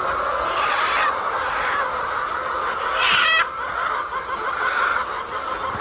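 A flock of laying hens clucking together in a steady chatter, with one louder, higher hen call a little after three seconds in.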